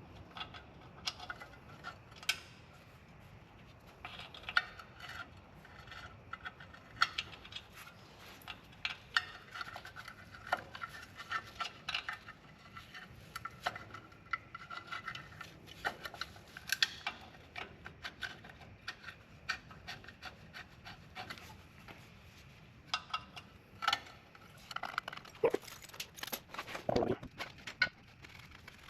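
Hand tools and metal brake parts being handled: scattered, irregular clicks, clinks and light knocks.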